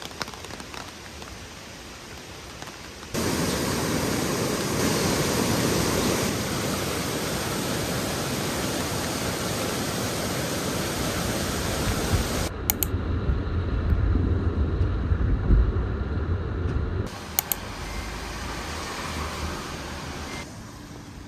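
Loud, steady rushing noise that starts abruptly a few seconds in. Partway through, the hiss drops away for about four seconds, leaving a low rumble with sharp thumps. A quieter rushing noise then returns.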